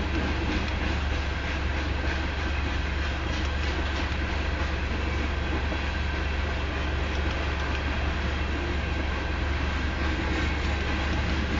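Coal hopper cars of a freight train rolling past at about 24 mph: a steady rumble of steel wheels on rail with faint, regular clicks over rail joints.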